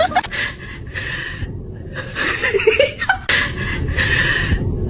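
A person chuckling and laughing breathily in a series of bursts, each about a second long.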